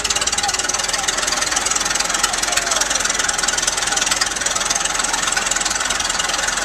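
An engine running at a steady speed, a fast even chatter of firing pulses.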